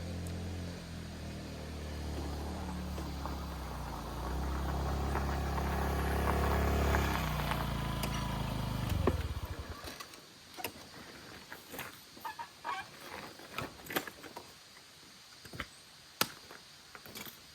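Small moped engine running steadily and slowly getting louder, then stuttering and cutting out about nine seconds in. After that, scattered light clicks and knocks.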